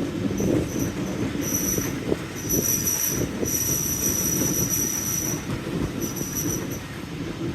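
Train wheels squealing in a run of thin, high squeals, short at first and then longer, the longest about two seconds, over the steady rumble of the train running on the rails.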